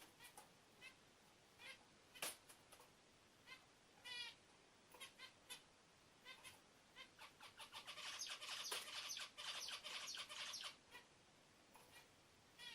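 A bulbul calling. Short scattered chirps and clicks, a quick warbled call about four seconds in, then a denser run of chirping song from about eight to eleven seconds.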